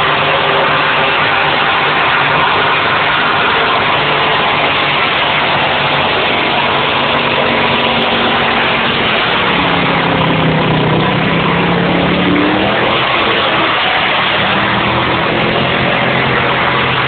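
Car engine held at high revs through a burnout, running loud and steady over the noise of the spinning tyres; about ten seconds in its pitch drops and then climbs again.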